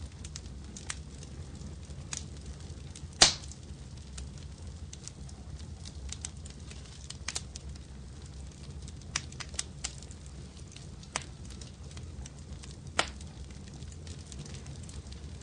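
Wood fire crackling in a fireplace: scattered sharp pops and snaps over a low steady rumble, with one loud pop about three seconds in and another strong one later on.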